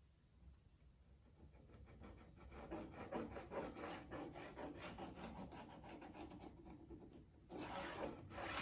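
Faint abrasive rubbing on the end of a wooden board: quick back-and-forth rasping strokes that start about a second and a half in, as the factory-cut end is worked square. A louder scrape comes near the end.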